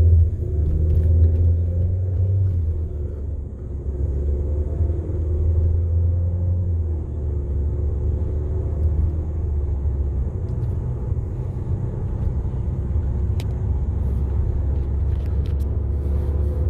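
Cabin rumble of a 2013 Volkswagen Jetta driving off from a traffic light, with the engine note rising and shifting in pitch over the first several seconds, then settling into steady road and engine rumble.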